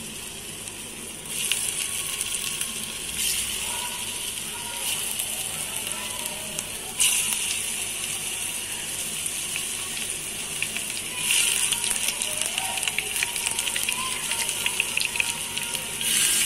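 Slices of steamed spinach patra rolls frying in hot oil in a pan, a steady sizzle that gets louder in several steps as more pieces are dropped in.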